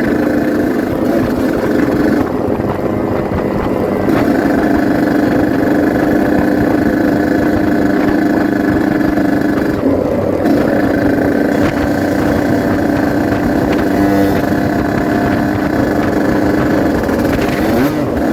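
Yamaha RX-King 135cc two-stroke single-cylinder motorcycle engine running steadily under way, its note easing off briefly about two seconds in and again around ten seconds.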